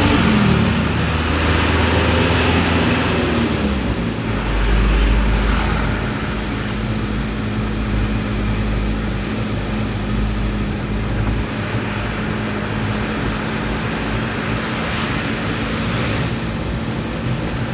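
Dump truck running, a steady engine drone under a loud rushing noise; the engine pitch falls over the first few seconds, then holds steady.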